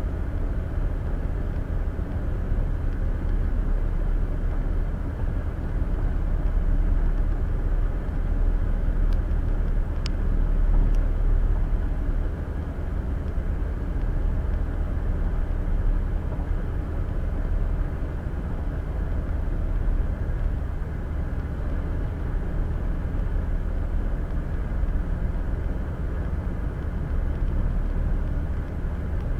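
Steady road and tyre noise with a low rumble from a car cruising on the interstate, heard from inside the cabin. One faint click about a third of the way through.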